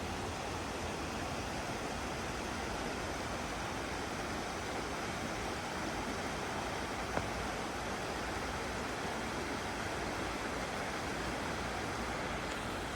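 River white water rushing over smooth stone, a steady, even rushing. One brief click about seven seconds in.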